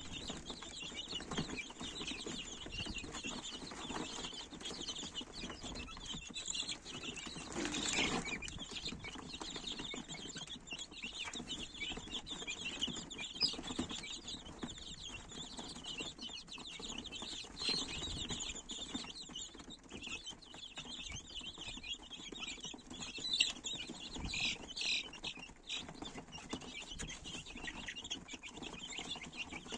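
Chickens clucking and calling, with many short high-pitched calls throughout and a brief louder burst about eight seconds in.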